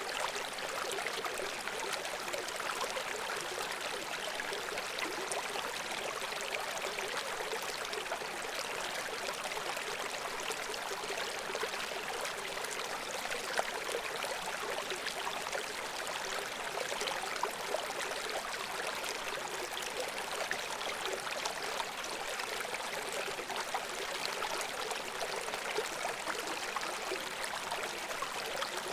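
Shallow brook babbling steadily over stones, a constant rushing hiss of water with small splashes and gurgles throughout.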